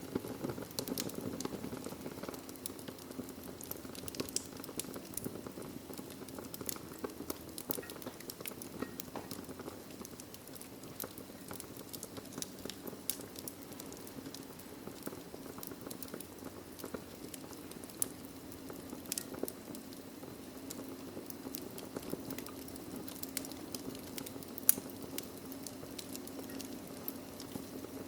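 Wood fire burning in a fireplace, crackling steadily with frequent small pops and one louder pop near the end.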